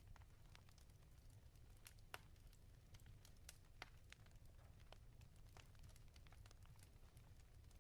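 Faint wood fire crackling in a fireplace: irregular sharp snaps and pops over a steady low rumble, with the loudest pops about two seconds in and near four seconds.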